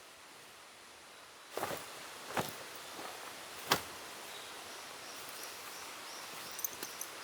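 Three sharp knocks or snaps over a quiet forest background, the third the loudest. About halfway through, a faint high-pitched trill starts and runs on in short stretches, with a few light ticks near the end.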